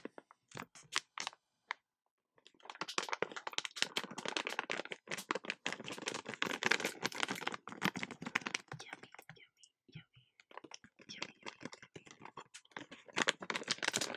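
Rapid, close-miked ASMR clicking and tapping in dense bursts with short pauses, like quick typing.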